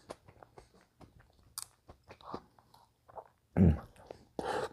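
Close-miked eating sounds: chewing with many small wet mouth clicks and smacks. A short louder burst comes about three and a half seconds in, and a noisy one near the end.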